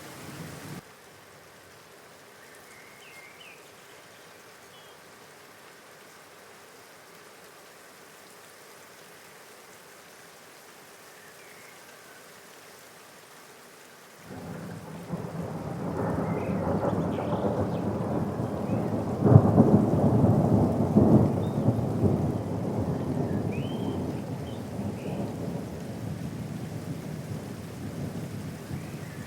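Steady rain falling; about halfway through, a roll of thunder starts suddenly and rumbles loudly, peaking a few seconds later and slowly dying away under the rain.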